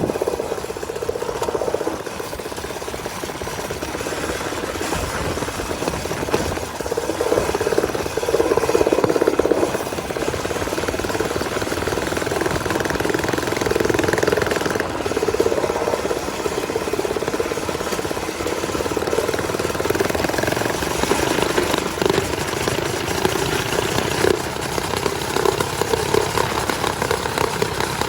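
Small single-cylinder bike engine running steadily while being ridden, with a fast, even pulse that swells and eases slightly as the throttle changes.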